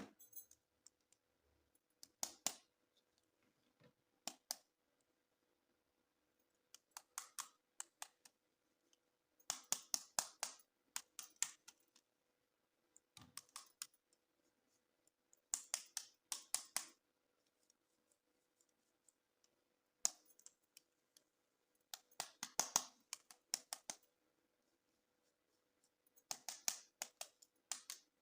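Hands handling plastic toy packaging: short clusters of rapid clicks and crackles every few seconds, with quiet gaps between.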